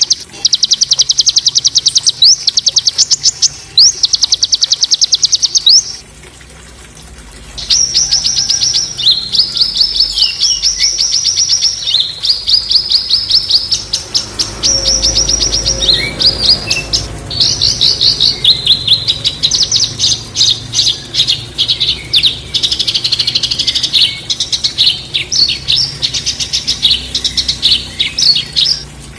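A small songbird singing loud, fast strings of harsh repeated high notes, the 'tembakan kasar' phrase used as masteran for training captive songbirds. The song breaks off about six seconds in, resumes a second or so later and stops just before the end.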